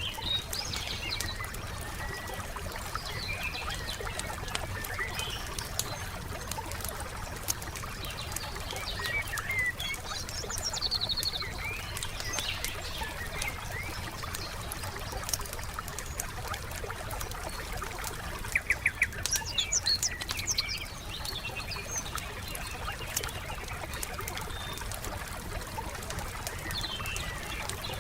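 Campfire crackling with many small pops and ticks, under scattered chirps of songbirds, including a quick trill about two-thirds of the way through. A steady low rumble lies beneath.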